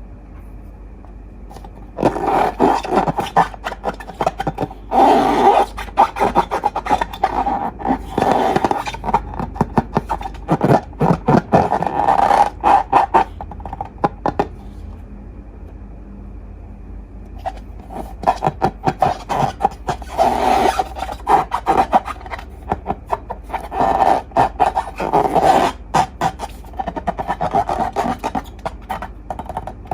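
Slime being squeezed and worked by hand, giving dense runs of rapid crackles and pops in two long stretches with a short pause between.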